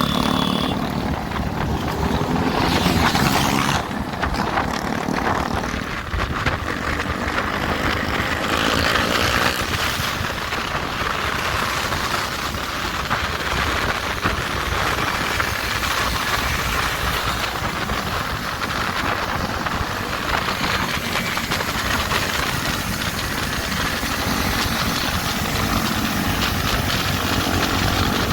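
Motorcycles being ridden at speed, with heavy wind rush on the microphone and engine notes rising and falling a few times.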